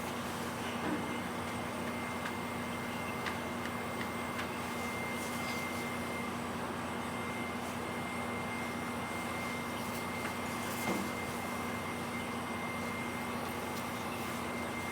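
Steady drone of an idling engine, a low hum with a faint high whine over it, with a few faint clicks.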